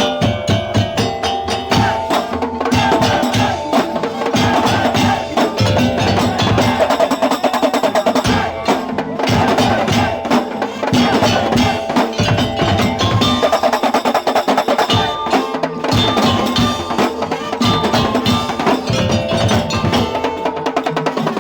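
Madurese daul (tongtong) ensemble playing a fast, busy rhythm on wooden slit drums (kentongan), gongs and tuned metal percussion.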